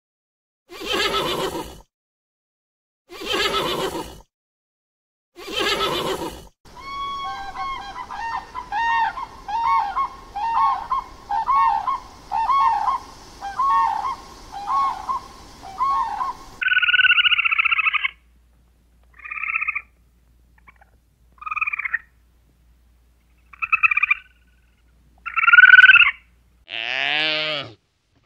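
Horse whinnying in short calls, three times. These give way to bird calls: about ten seconds of rapid repeated calls, then a few separate higher calls, and near the end one call falling in pitch.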